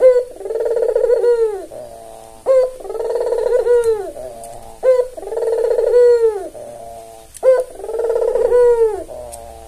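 White albino puter (Barbary dove) cooing its repeated song. There are four phrases about two and a half seconds apart, each a short sharp note followed by a long rolling coo that falls away at the end.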